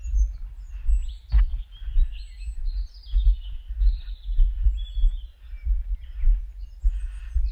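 Footsteps at a steady walking pace, a soft low thud about every 0.6 s, with small birds chirping and singing throughout.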